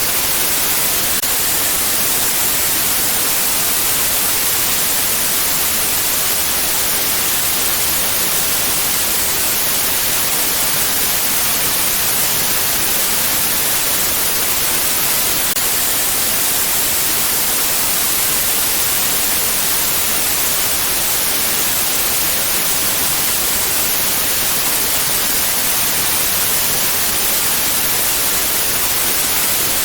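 Steady white noise: an even, unbroken hiss, strongest in the high frequencies, that does not change.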